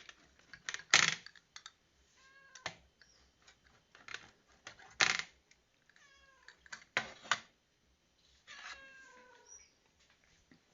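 A cat meowing three times in short calls, among sharp clicks and knocks; the loudest knocks come about a second and about five seconds in.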